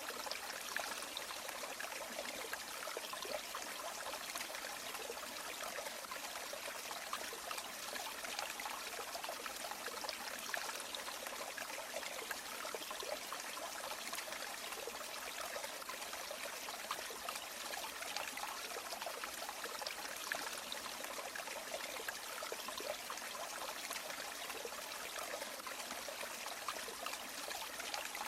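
River water flowing steadily, a continuous rush with fine trickling and splashing detail and no pauses.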